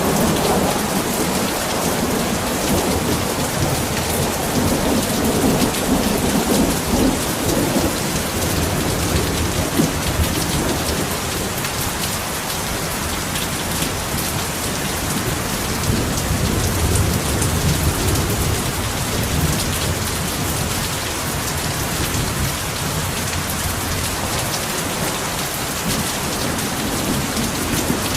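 Heavy rain falling steadily with a dense hiss, under low rolling thunder that swells and fades several times.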